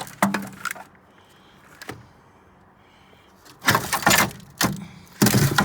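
Clattering knocks and rattles of metal parts and tools being handled: one sharp knock at the start, then a louder run of clatters in the second half.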